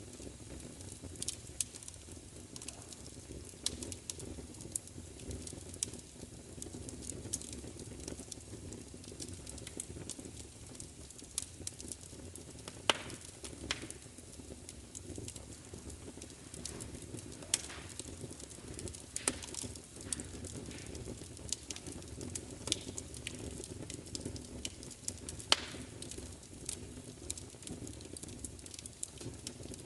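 Wood fire burning with a steady low rumble and frequent sharp crackles and pops, a few of them louder than the rest.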